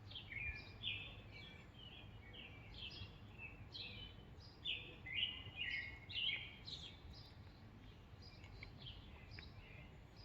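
Small bird chirping rapidly: short, high chirps that sweep downward, several a second, thinning out and fading near the end, over a low steady background noise.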